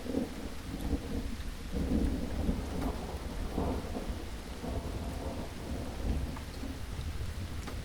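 Steady rainfall, with a low rumble that swells and fades beneath it.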